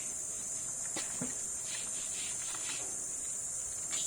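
Budgerigars giving a few soft chirps in the middle, over a steady high-pitched hiss.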